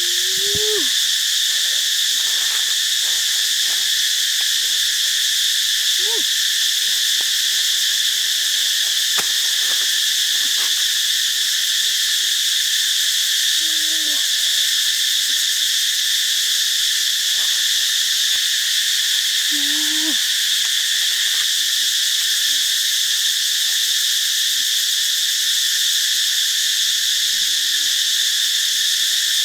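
Dense, steady chorus of forest insects such as crickets or cicadas, loud and unbroken. Every several seconds a short, low animal call with a bending pitch sounds through it, about five times in all.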